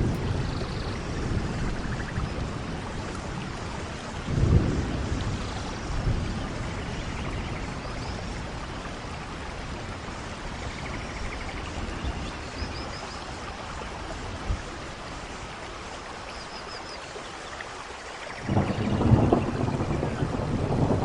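Steady rainfall with rumbles of thunder: a short rumble about four seconds in and a longer, louder one starting near the end.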